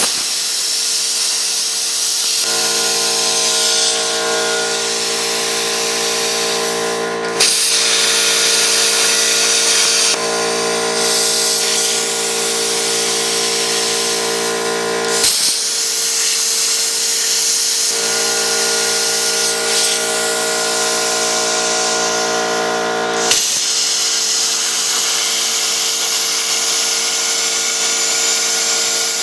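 CNC plasma cutter working on metal: a loud, continuous hiss of the arc and air together with a steady multi-tone whine from the machine. The mix changes several times, with a short pop at some of the changes.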